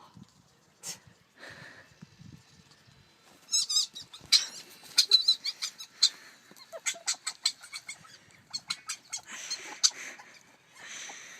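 A dog's squeaky whines and yelps over a quick run of short clicks and taps, busiest in the middle.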